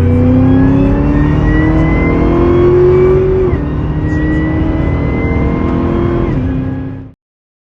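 2013 Cadillac CTS-V coupe's supercharged 6.2-litre LSA V8 accelerating hard, the engine note and the high supercharger whine rising together through the gears. The pitch drops sharply at an upshift about three and a half seconds in and again a little after six seconds, then the sound cuts off suddenly near the end.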